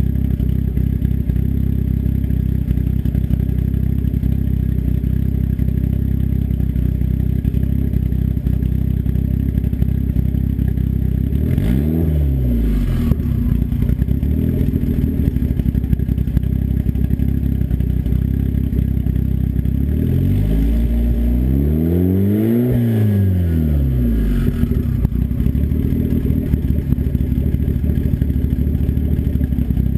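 Turbocharged engine with an open-dump 3-inch turndown downpipe idling steadily. A quick rev rises and falls about twelve seconds in, and a longer, higher rev rises and falls about two-thirds of the way through.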